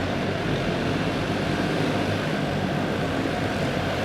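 A pack of racing karts' single-cylinder OHV clone engines running hard around a dirt oval, many engine notes overlapping at a steady level.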